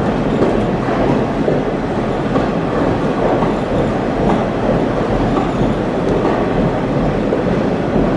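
Passenger train running steadily, heard from aboard: a continuous rumble of wheels on the rails with some clickety-clack of the cars over the track.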